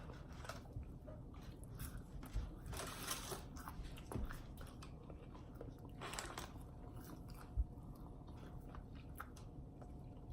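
Close-up chewing and biting of food, a scatter of short wet and crunchy mouth sounds, louder bites about three and six seconds in.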